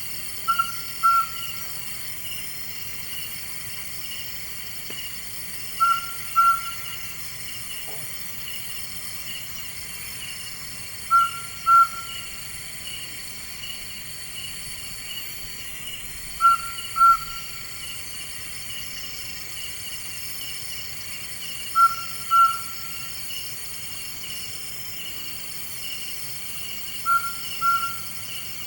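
A night bird calling a short two-note whistled call, repeated six times about every five seconds, over a steady chorus of night insects.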